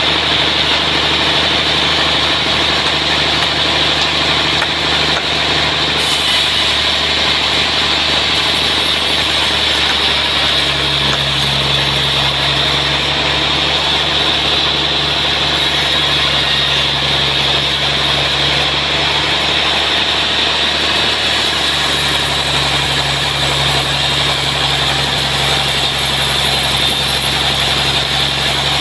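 Sawmill running steadily while milling a large trembesi (rain tree) log, a continuous loud machine drone with a steady hiss over it; the low hum shifts in pitch a little about a third of the way in and again past two-thirds.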